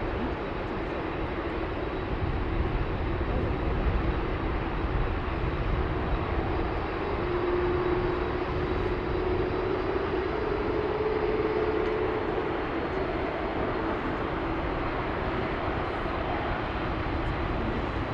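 Jet engines of an Airbus A380-842, its four Rolls-Royce Trent 900 turbofans, on landing: a steady rumble and hiss with a held whining tone that rises a little in pitch about halfway through.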